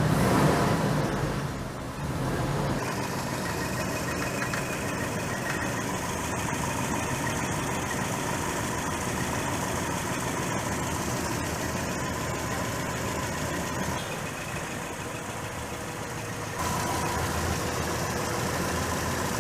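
Toyota Corolla KE72's four-cylinder engine running steadily at idle, louder for the first two seconds and a little louder again near the end.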